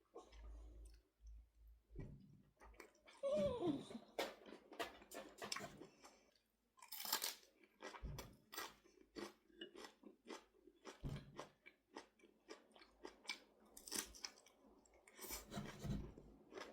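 A person chewing food close to the microphone, with irregular crunchy bites and mouth clicks.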